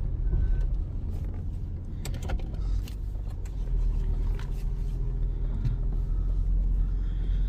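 Holden Commodore's engine running steadily, a continuous low rumble, with a few short clicks about two seconds in.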